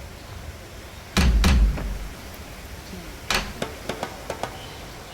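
Two heavy thuds about a second in, then a sharper knock followed by a run of light clicks.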